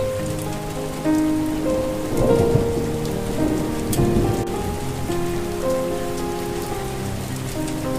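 Steady rain, with a slow melody of held notes played over it.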